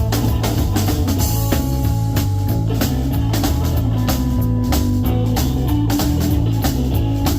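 Live blues boogie band playing an instrumental stretch: electric guitar over a stepping boogie bass line, with a steady drum kit beat.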